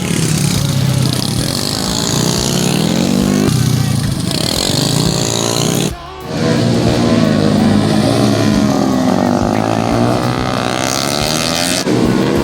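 Motorcycle engines revving and passing, their pitch rising and falling in repeated sweeps. The sound drops out briefly about six seconds in.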